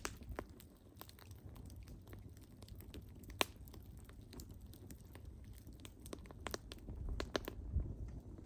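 Wood fire crackling: scattered sharp pops over a low, steady rumble of flame. The loudest pop comes about three and a half seconds in, and a quick cluster of pops comes near the end.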